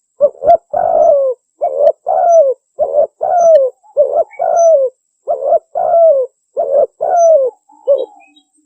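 Spotted dove (tekukur) cooing, the call played as a hunting lure. Its phrase of a short coo followed by a longer coo that falls in pitch repeats steadily, about seven times.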